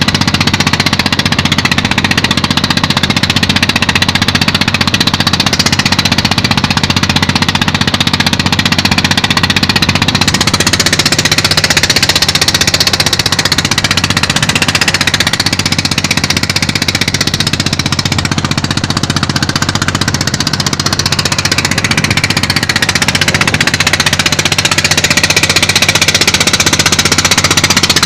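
A fishing boat's engine running steadily, with a rushing noise of wind and waves over it.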